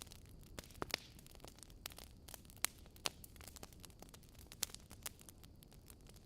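Log fire crackling in a fireplace: irregular sharp pops and snaps over a soft, low hiss of the flames, with a few louder pops scattered through.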